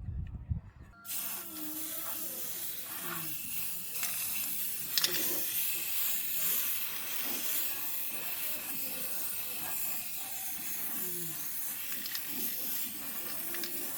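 A steady hiss, starting suddenly about a second in, with a few faint clicks partway through.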